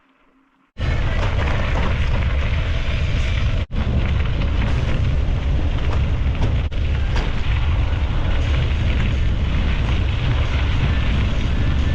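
Loud wind buffeting on the microphone of a moving bicycle rider, a heavy fluctuating rumble with rushing noise over it. It starts abruptly about a second in.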